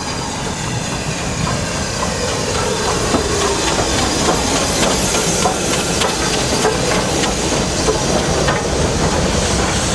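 Train running on the line: a steady hiss with irregular clicks of wheels over rail joints, growing gradually louder.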